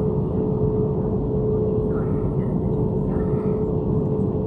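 Airliner engine noise heard inside the passenger cabin while the plane taxis before take-off: a steady hum with one constant tone over it.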